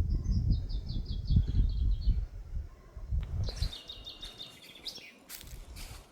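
A small songbird singing two short trilled phrases of rapid high notes, the first stepping down in pitch, the second a few seconds later. A low rumble on the microphone, louder than the bird, fades out about halfway through.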